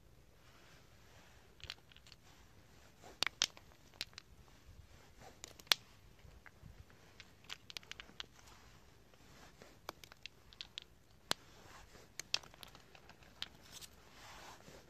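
Irregular, scattered crackles and snaps of dry wood, a few sharper pops among quieter ticks.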